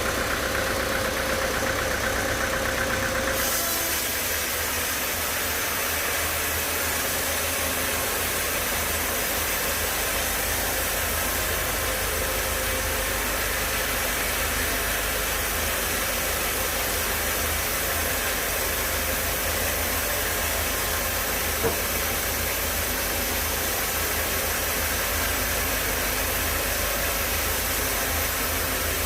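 Sawmill machinery running steadily. A higher tone drops out about three seconds in, and there is a single sharp click just past twenty seconds.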